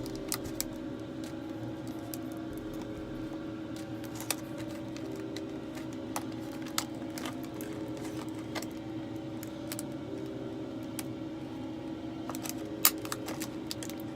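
Fingernail clippers snipping open plastic packaging: a few scattered sharp clicks, the loudest near the end, over a steady hum.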